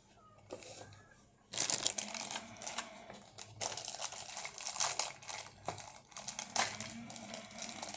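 Plastic toy packaging crinkling and rustling as it is handled and opened, starting about one and a half seconds in and going on in a continuous crackle.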